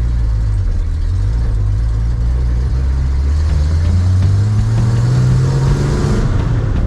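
1965 Ford Econoline's straight-six engine pulling in first gear, heard from inside the cab: its pitch rises steadily as the van accelerates, then the revs drop off near the end.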